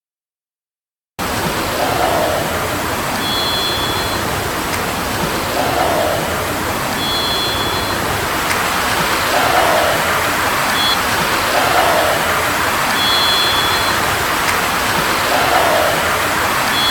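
Steady rushing noise, like running water, starting about a second in. Over it, a short high beep made of two steady tones together repeats about every three to four seconds, with a short, lower falling note between each beep. The calls are an unidentified sound that the uploader leans towards taking for a bird, though to him it sounds electronic.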